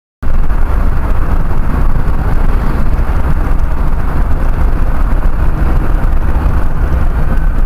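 Steady, loud rumble and road noise of a moving vehicle picked up by a dash cam, with a heavy low drone; it starts abruptly about a quarter second in.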